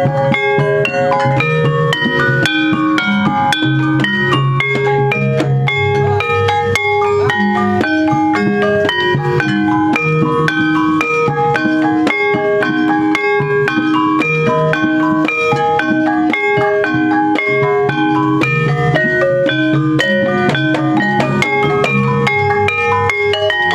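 Javanese gamelan ensemble playing: mallet-struck metal keys ring out many short notes in fast, repeating interlocking patterns over lower held notes, at an even tempo.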